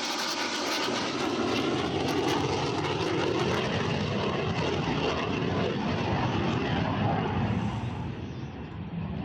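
Fixed-wing aircraft flying past, a steady loud engine rush whose high end fades over the second half as it moves away.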